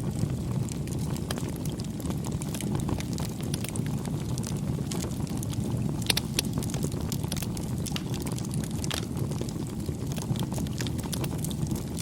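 Wood fire burning: a steady low rumble of flames with frequent small crackles and pops, and a couple of sharper pops about six seconds in.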